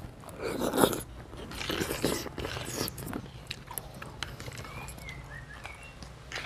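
A person chewing a mouthful of pentol meatballs close to the microphone, in irregular wet bursts, loudest in the first few seconds and quieter after.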